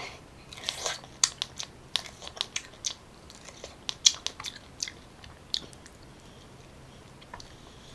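Close-miked biting and chewing of a piece of raw pineapple core: a run of sharp, crisp crunches through the first half, thinning out and stopping about two-thirds of the way in.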